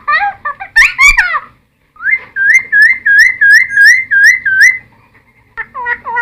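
Cucak timor (friarbird) singing loudly. It opens with a burst of varied, falling whistled notes, then after a short pause gives a run of about eight evenly repeated whistles, each sweeping up at the end. More song starts again near the end.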